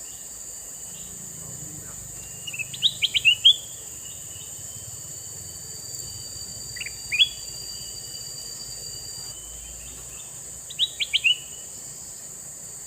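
Male kutilang mas bulbul calling in three short bursts of quick, rising chirps spaced a few seconds apart, over a steady high insect-like whine.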